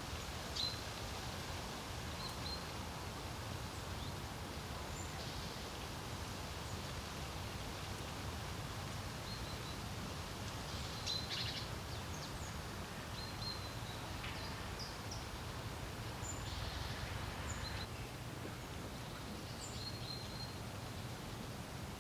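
Steady wind over open water with a low rumble, and small birds giving short high chirps here and there. A couple of louder rustling gusts come about halfway through and again later on.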